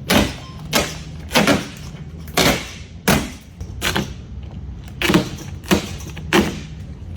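A series of heavy thuds or bangs, about ten in all, coming every half second to second, each short and sharp, over a steady low hum.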